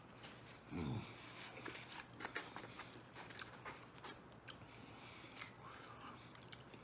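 Faint chewing and mouth clicks of a man eating a slice of deep-dish pizza, with a short low sound falling in pitch about a second in.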